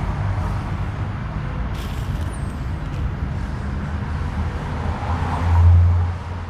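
Tram running and waiting, heard from on board: a steady low hum and rumble, a sharp click about two seconds in, and a louder low hum swelling for about a second near the end.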